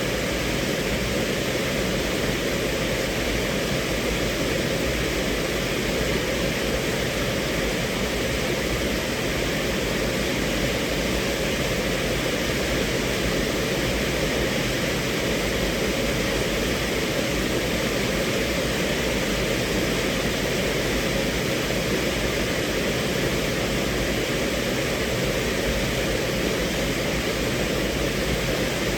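Rain falling steadily on a car's roof and windows, heard from inside the cabin as an even, unbroken patter.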